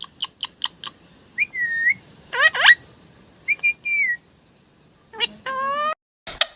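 Pet parrot calling: a quick run of short chirps, then a few short whistles, a sharp rising squawk, and a longer call near the end.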